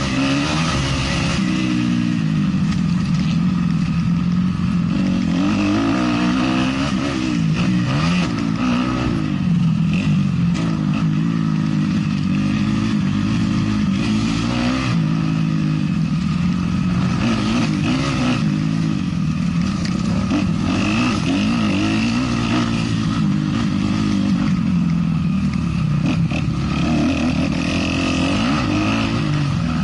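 450-class motocross bike engine under race load, revving up and dropping again over and over as the rider accelerates, shifts and backs off through the track.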